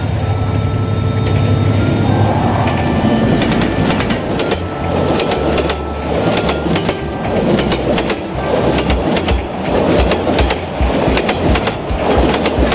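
A diesel-hauled passenger train passing close by. The locomotive's rumble gives way to the carriages' wheels clacking rhythmically over the rail joints, with a faint squeal of wheels on the rails.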